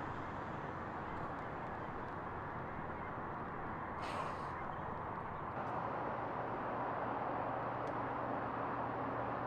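One short, harsh bird call about four seconds in, over a steady background of noise.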